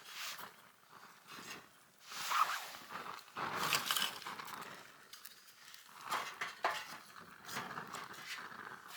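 Irregular rustling with many light clicks and clinks, like gear being handled, busiest from about two to four and a half seconds in.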